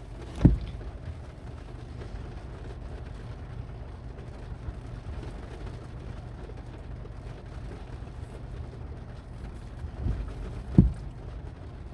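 Steady background noise with a low rumble, broken by two short dull thumps, one about half a second in and one near the end.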